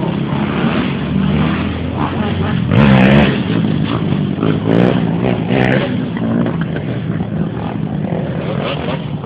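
Dirt bike engines running and revving, with the loudest rev about three seconds in and another around five seconds.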